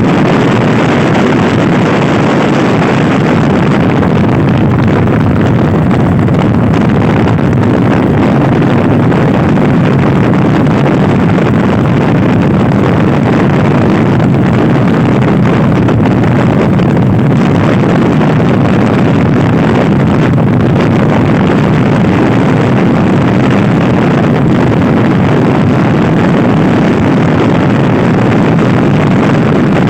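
Steady, loud wind rushing over the microphone of a Honda Scoopy-i scooter ridden fast, with the scooter's engine running under the wind noise.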